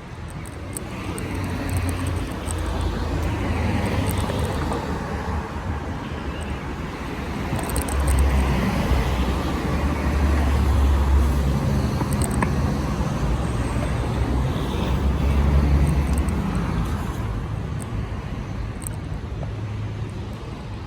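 City street traffic with cars going by, heard from a moving bicycle, with a low rumble that swells twice, about a third of the way in and again past the middle.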